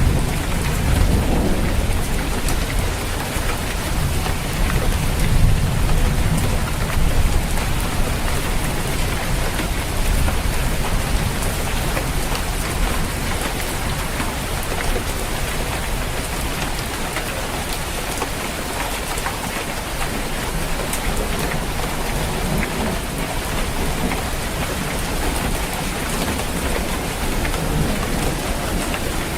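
Steady heavy rain falling on a roof, a dense even hiss, with a low rumble of thunder in the first several seconds that fades away.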